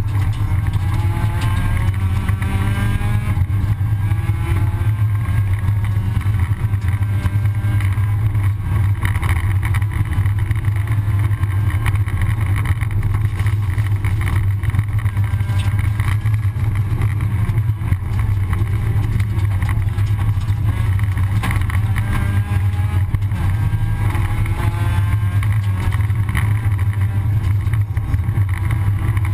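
Rally car engine heard from inside the cabin, driven hard with a loud steady low drone, its revs climbing again and again as it accelerates, notably in the first few seconds and again past the twenty-second mark.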